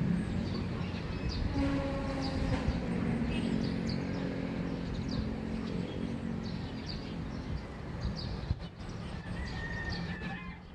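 A bird chirping over and over, about two short high chirps a second, over a low steady rumble and hum of distant traffic or machinery that fades about eight seconds in.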